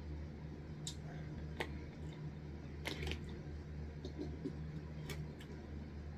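A person chewing ice from a drink: a few short, sharp crunches and clicks scattered over a steady low hum.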